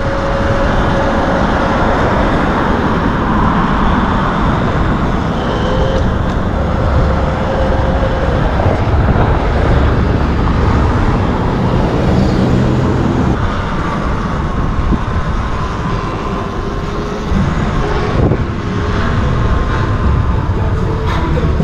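Steady wind and road noise from riding a Sur-Ron electric dirt bike, with faint whines that shift in pitch as it speeds up and slows down.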